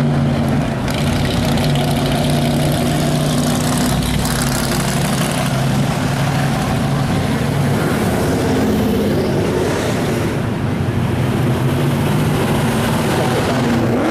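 Car engines running at low speed with a steady low hum of engine tones, shifting a little in pitch now and then.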